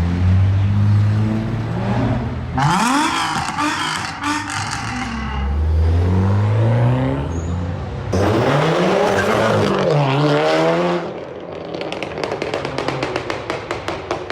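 Sports car engines revving hard, pitch sweeping up and down in several pulls. Near the end comes a fast, even train of sharp pops.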